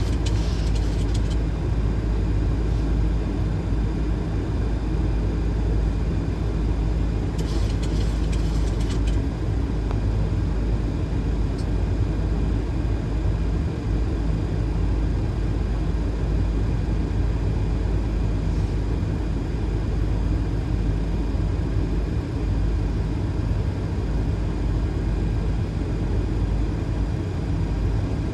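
Steady low rumble and rush of a Boeing 737 flight deck on approach, the airflow and engine noise heard in the cockpit. There are two brief hissy bursts, one at the start and one about eight seconds in.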